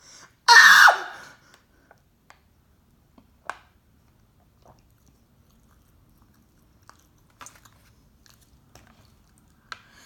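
A person chewing a mouthful of toaster strudel, heard as sparse faint mouth clicks and smacks. About half a second in there is a single loud, short noise.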